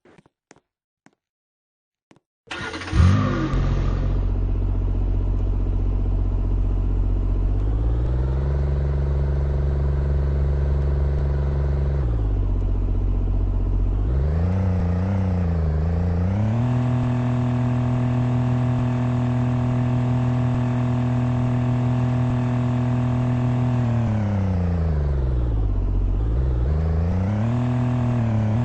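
An engine starts suddenly a couple of seconds in and then runs steadily, its pitch rising and falling several times as it speeds up and slows down.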